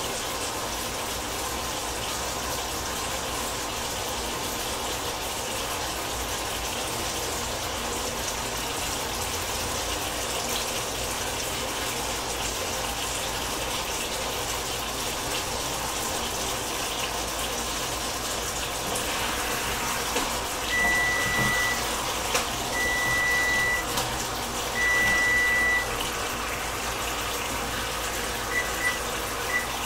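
Chicken thighs frying in barbecue sauce in a pan, a steady sizzling hiss. About two-thirds of the way through, three long high electronic beeps sound in a row, and two short beeps near the end.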